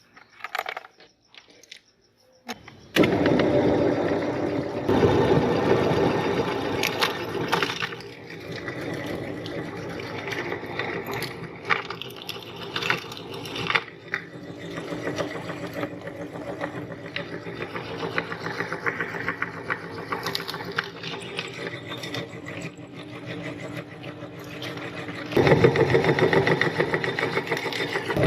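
Electric meat grinder's motor starting abruptly about three seconds in and running steadily, with scattered sharp clicks and cracks as material goes through it; it gets louder near the end.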